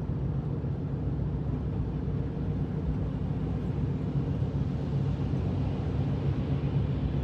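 Steady low drone of a vehicle's engine and tyres, heard inside the cabin of a four-wheel-drive vehicle driving along a snowy road.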